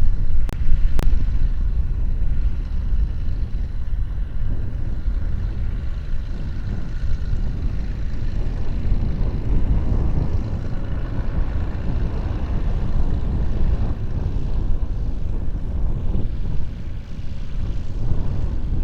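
Gusty wind buffeting the microphone, rising and falling in level, with a steady aircraft engine drone underneath.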